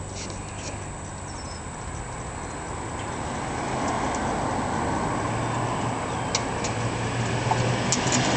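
A motor vehicle's engine running and growing steadily louder, with a few sharp clicks near the end.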